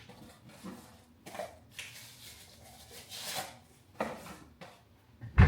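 Cup and water bottle being handled on a counter: scattered light knocks and rubbing, a short rustle about three seconds in, and a heavy thump near the end.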